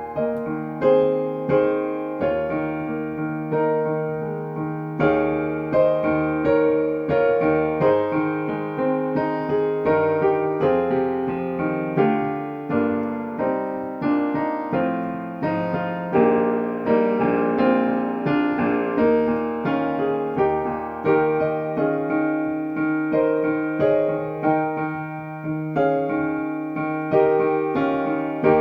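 Solo piano music, played at a steady, gentle pace.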